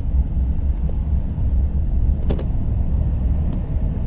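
Steady low rumble of a car, heard from inside the cabin, with a single click a little after two seconds in.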